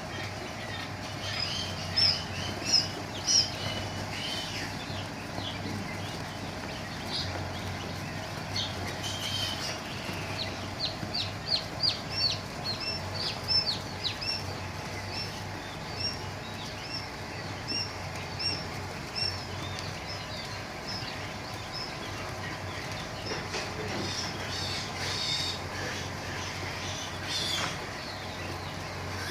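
Newly hatched quail chicks peeping: short, high, downward-sliding chirps, coming in quick runs and scattered singles, over a steady low hum.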